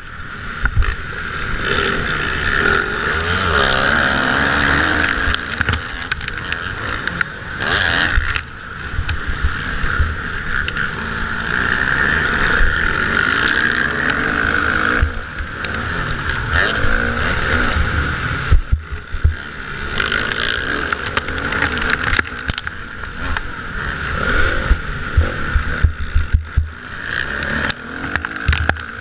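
Motocross bikes racing, their engines revving up and down in pitch as they accelerate and shift, with riders passing one after another.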